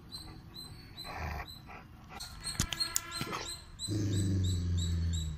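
Rottweiler chewing raw beef tail with a few crunching clicks, then a low steady growl from about four seconds in: food guarding over the meat.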